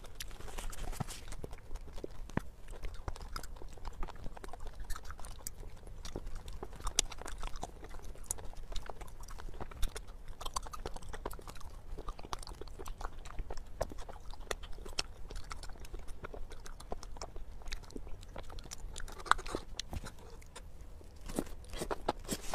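Close-miked eating: chewing with many small wet clicks and smacks. A burst of slurping comes near the end, as a forkful of noodles is sucked in.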